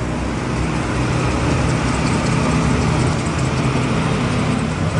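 1993 Mazda RX-7's 1.3-litre twin-turbocharged rotary engine idling steadily.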